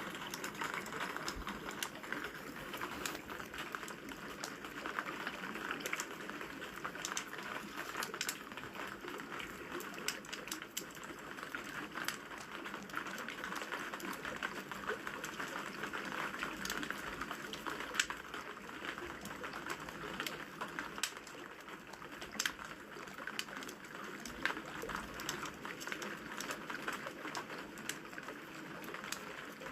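Wood fire crackling with frequent, irregular sharp pops over a steady hiss of rain.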